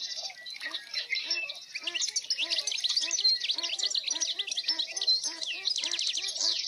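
Several birds chirping and twittering at once in dense, fast, overlapping calls, with a lower call repeating steadily underneath.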